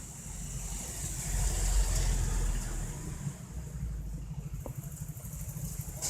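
Road traffic: a motor vehicle's engine passing close by, swelling to its loudest about two seconds in and then fading, over a steady low rumble.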